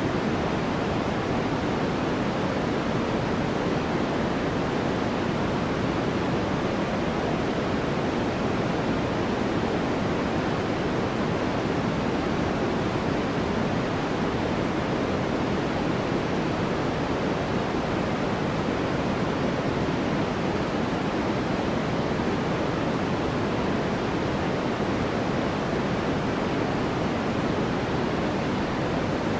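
Steady sleep-aid noise: an even, unchanging hiss with no events. It is fuller in the lows and mids than in the highs, closer to pink noise than to flat white noise.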